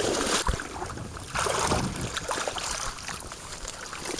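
Water splashing and rushing around a small boat, in two louder surges about a second apart that then fade.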